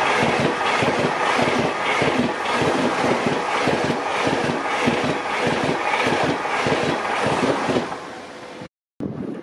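DB ICE 2 high-speed electric train passing close at speed: a loud rush of wheel and air noise with a regular beat of about three wheel thumps a second. The sound dies away about eight seconds in as the last car clears.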